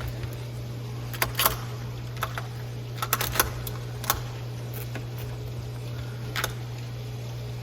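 Scattered light clicks and knocks, a few in quick clusters, over a steady low hum.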